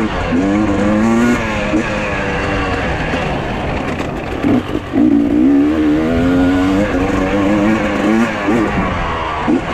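Dirt bike engines revving. The pitch climbs and drops again and again as the bikes accelerate and ease off.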